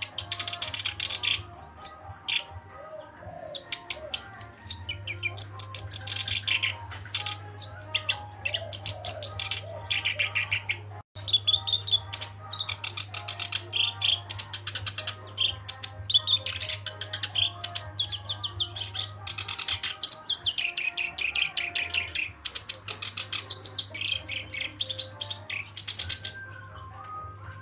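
Black-browed reed warbler singing continuously: fast runs of rapid, repeated high-pitched notes in chattering phrases separated by short gaps, with a brief break about eleven seconds in. A steady low hum runs underneath.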